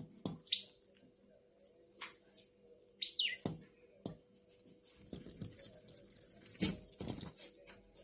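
Common tailorbird giving short, sharp chirps that fall in pitch: one about half a second in and a quick double chirp about three seconds in. Scattered sharp taps and knocks sound between them.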